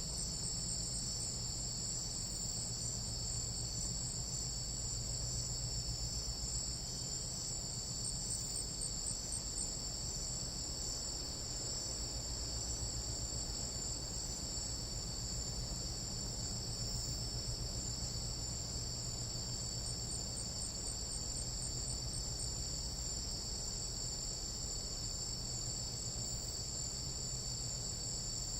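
Tropical jungle night insects in a steady chorus: several high-pitched trills at different pitches layered without a break, over a low hum.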